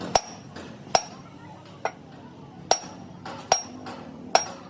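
Hammer blows on steel, six evenly spaced strikes a little under a second apart, each ringing briefly.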